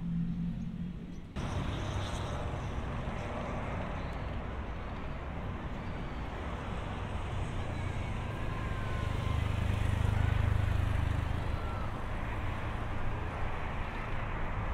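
Distant high-speed electric train running past amid road traffic: a steady rushing hum that swells and deepens around the middle. An earlier low steady hum cuts off abruptly about a second in.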